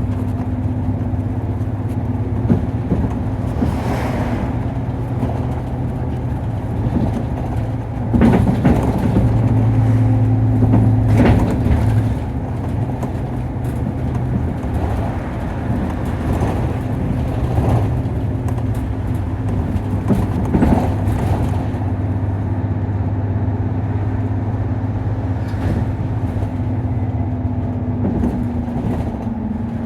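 Nissan Diesel KC-UA460LSN city bus heard from on board while driving: a steady diesel engine drone with occasional knocks and rattles. The engine note strengthens about eight seconds in and eases back around twelve seconds.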